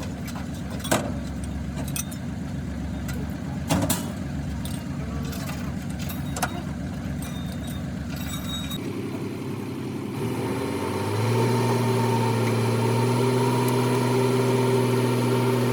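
An engine running with a low rumble and a few sharp metallic knocks, then, after an abrupt cut, an engine speeding up over about a second and holding a steady, higher-pitched note.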